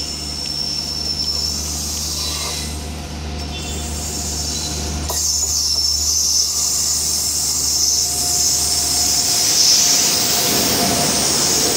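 WAP-7 electric locomotive hauling a passenger express, approaching and passing close by at speed. The high hiss of wheels on rails grows louder from about halfway through as the train nears.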